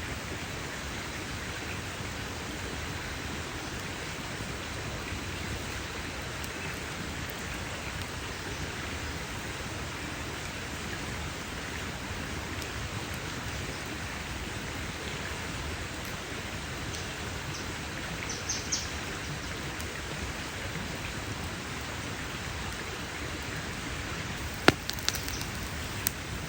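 Campfire burning with a steady hiss, a few small crackles about two-thirds of the way through, and one sharp, loud pop near the end followed by a smaller one.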